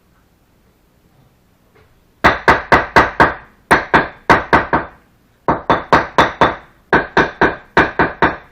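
A hand tool knocking hard on brick during bricklaying: four quick runs of sharp, ringing knocks, about four a second, starting about two seconds in.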